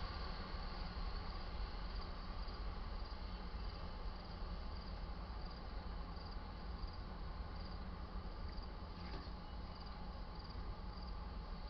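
Crickets chirping steadily, about two chirps a second, over a low, steady rumble.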